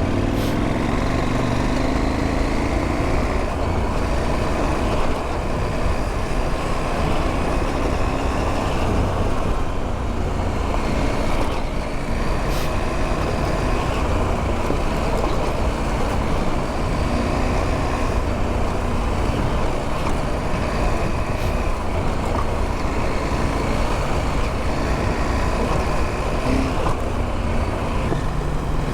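Adventure motorcycle engine running at a steady cruising pace while riding a gravel track, with a few faint clicks.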